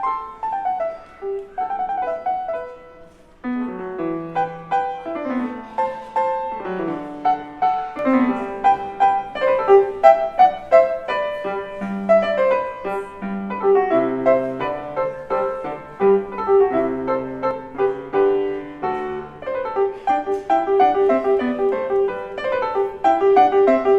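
Piano playing a classical-style piece. It pauses briefly about three seconds in, then goes into a busier passage of quick, repeated notes.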